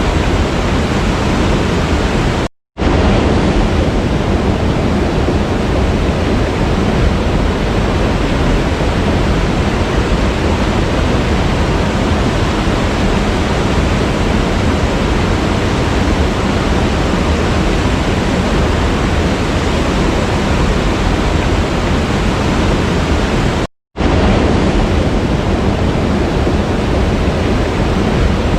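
Waterfall rushing in a steady, dense roar of water noise. It cuts out completely for a split second twice, about two and a half seconds in and near the end.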